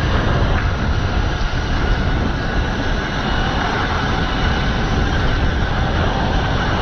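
Tuttio 48-volt electric dirt bike being ridden over rocky ground: steady wind rush and the rumble of tyres and chassis over rocks, with a faint high motor whine running through it.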